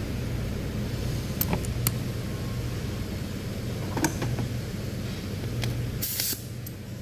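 Steady low background hum with a few light metallic clicks from engine parts being handled during the teardown, and a short hiss about six seconds in, after which the hum drops away.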